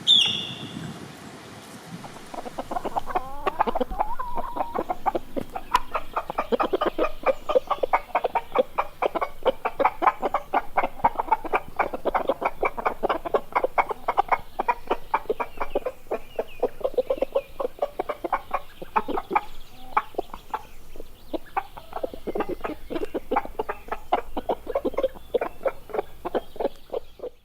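A flock of chickens clucking, many short calls overlapping in a busy, continuous chatter that starts about three seconds in, after a brief high chirp at the very start.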